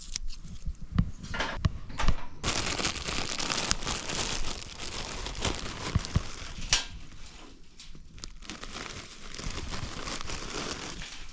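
Crinkling and rustling with many small sharp clicks, louder in the first half and softer after about seven seconds.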